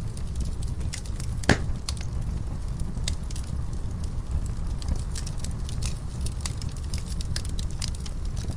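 Wood fire in a fireplace crackling: many small irregular snaps over a steady low rumble, with one loud pop about a second and a half in.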